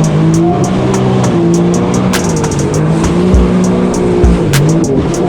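Yamaha FZR jet ski engine running under way, its pitch rising and falling with the throttle, with music playing over it.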